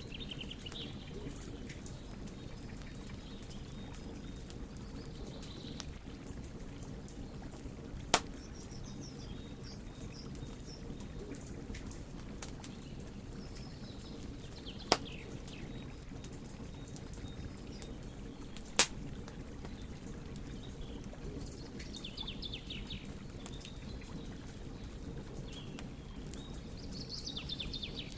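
Wood fire burning with a steady low rush and light crackling, broken by three loud, sharp pops spread through it.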